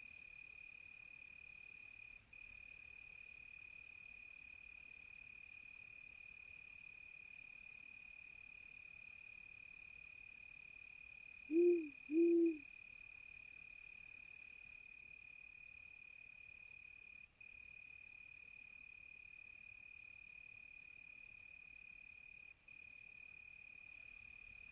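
Crickets chirping in a steady high trill, with an owl hooting twice in quick succession about halfway through.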